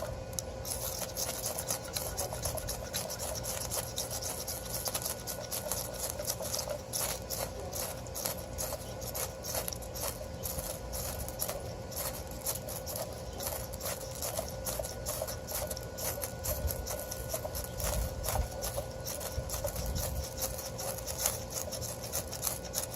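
Ferrocerium rod scraped over and over with a striker to shower sparks, making a quick, uneven run of rasping scrapes. The attempt to light fairly green pine is not catching.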